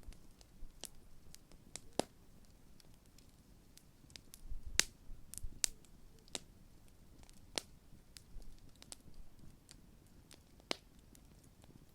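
Large wood bonfire crackling: irregular sharp pops and snaps of burning wood, with a cluster of louder pops about five seconds in.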